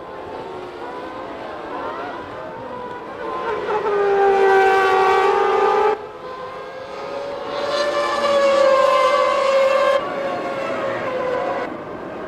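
Formula One car engines screaming at high revs, pitch rising and falling as cars pass. The sound swells loud twice and cuts off abruptly each time at a shot change, then eases near the end.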